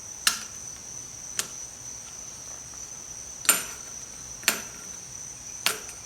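Metal parts and tools clinking as they are handled and moved about: five sharp clinks with a brief high ring, about a second apart, over a steady high-pitched whine.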